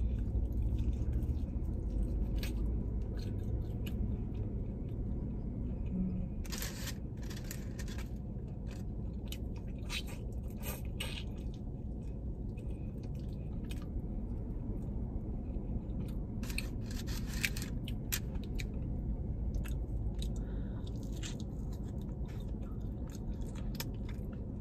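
Close-up chewing and crunching on a fried chicken wing, with clusters of crisp mouth clicks about six seconds in, around ten seconds, again at sixteen to eighteen seconds and near the end.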